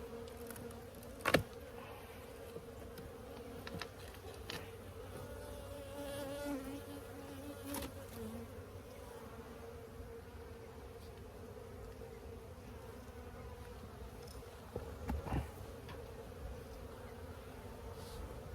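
A honeybee colony buzzing steadily in a steady hum as its nest in a tire is opened up, with a few sharp knocks, the loudest about a second in.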